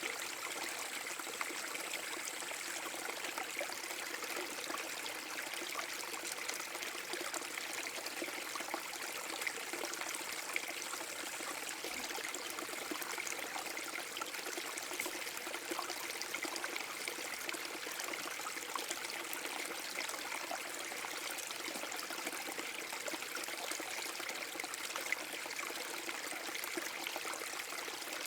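Small waterfall on a forest brook: water splashing and trickling steadily over rocks.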